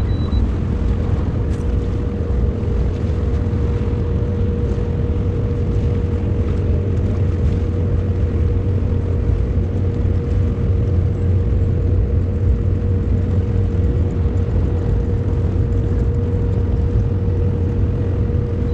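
Small boat's outboard motor running at a steady speed, a constant low rumble with a steady hum above it.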